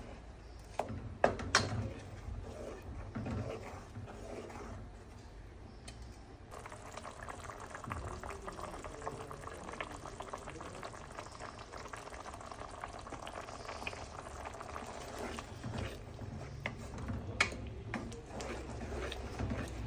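Quail curry cooking in a pot, bubbling and sizzling, with a few sharp knocks in the first two seconds. The bubbling grows denser and crackly about six seconds in.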